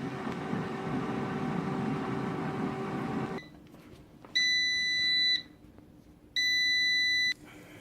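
Culinary Edge digital air fryer's fan running with a steady hum, stopping suddenly about three seconds in. Then the fryer gives two long beeps of about a second each, its signal that the cooking cycle is done.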